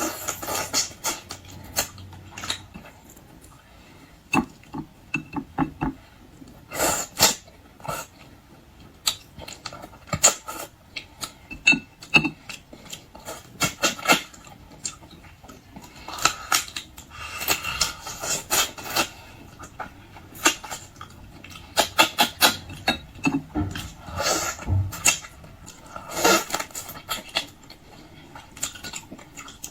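Close-up eating sounds: irregular crunching, smacking and sucking as raw marinated mud crab is chewed while still partly frozen, with ice crystals in it.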